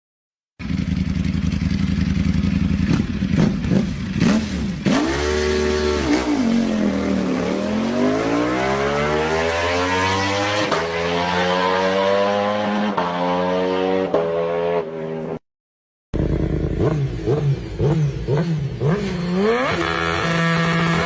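Sport motorcycle engines revving through their exhausts, in clips cut one after another. The engine note falls and then climbs steadily as the throttle is opened, with quick blips of revs in the later clip and a short silent break between the two.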